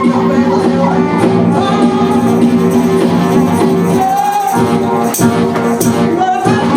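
Live band music: sustained held notes under a wavering melody line, with occasional sharp percussive strokes.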